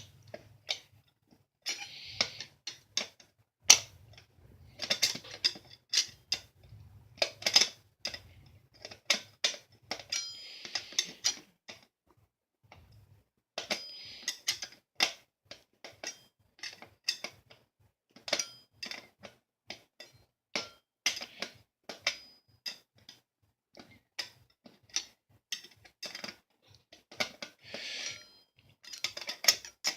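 Butter knife used as a screwdriver, working a stubborn box fan screw loose: irregular sharp clicks and short scrapes of the blade in the screw head, with pauses between.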